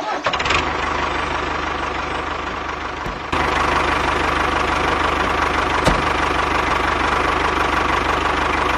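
A small engine running steadily, getting louder at an abrupt step about three seconds in. There is a single short click near the middle.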